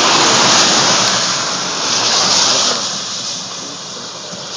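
A vehicle driving past on the road, a rushing tyre and road noise that is loudest for the first two and a half seconds and then fades away.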